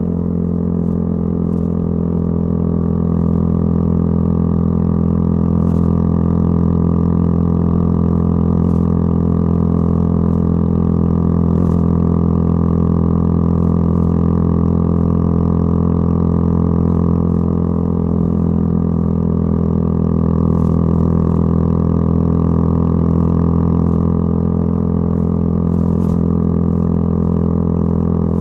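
Yamaha YZF-R125's single-cylinder four-stroke engine through a modified exhaust, running at steady, unchanging revs with a low drone.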